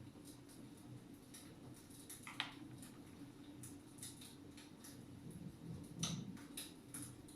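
Faint wood fire crackling in a fireplace: irregular small snaps and pops, with a sharper pop a little over two seconds in and a cluster of louder crackles around six seconds in.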